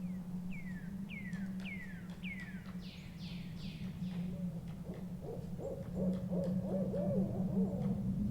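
Forest ambience of owl and bird calls. A bird gives four quick, high, downward-sliding whistled notes in the first couple of seconds, then an owl makes a run of low, quavering calls through the second half, over a steady low hum.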